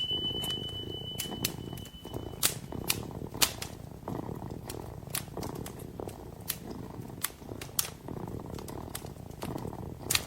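A kitten purring steadily close up, over a wood fire crackling and popping with scattered sharp snaps. A thin high whistle holds for the first couple of seconds, then stops.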